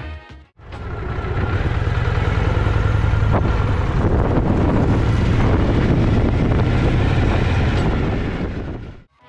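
Harley-Davidson FLH Electra Glide's Shovelhead V-twin running as the bike pulls away and rides slowly over gravel, a steady low pulsing exhaust note. It fades in about half a second in and fades out near the end.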